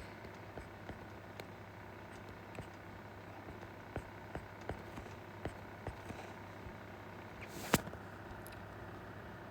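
Faint light taps and clicks from drawing, a few in a row around the middle and one sharper click near the end, over a low steady hum.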